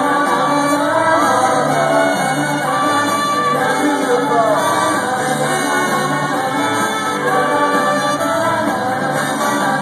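Live rock band playing an instrumental passage between sung lines, steady and loud throughout.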